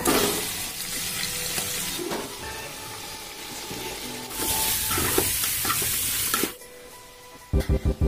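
Chicken pieces and masala sizzling as they fry in an aluminium pot, stirred with a spoon. The sizzle swells louder from about four seconds in, then drops away about six and a half seconds in. Music with a beat starts near the end.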